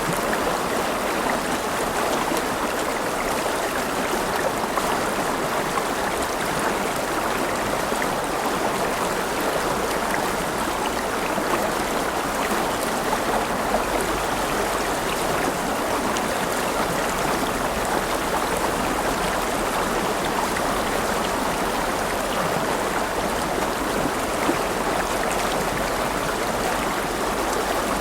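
River water running over rocks: a steady, even rush with fine trickling detail.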